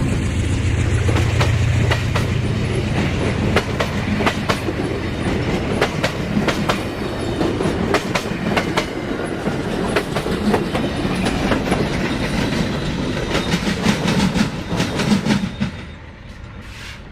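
A train passing: a low engine drone at first, then a long run of wheel clicks over the rail joints as the cars roll by. The sound drops off sharply about a second before the end.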